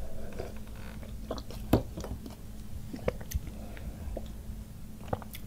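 Close-miked chewing and wet mouth sounds of someone eating, broken by several short, sharp clicks, the loudest about a second and a half in.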